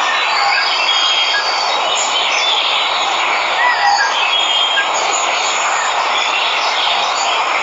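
Steady rushing of a waterfall, with birds chirping over it in short whistled calls and small rising-and-falling notes.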